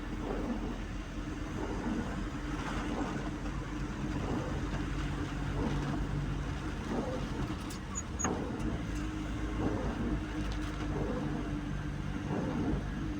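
Car engine running steadily, a low, even hum.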